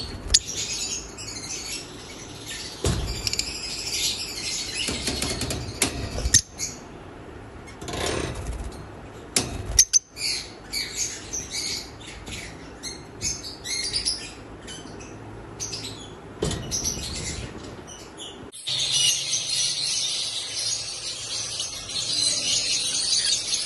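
Lutino African lovebirds chirping and chattering in quick high calls, mixed with sharp clicks and knocks. Near the end the sound cuts suddenly to a denser, unbroken chirping.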